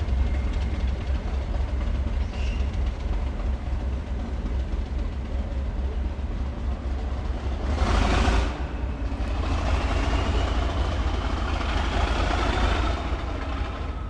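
Train running with a deep, steady rumble. A short burst of louder noise comes about eight seconds in, followed by a faint squeal that slowly rises in pitch for a few seconds.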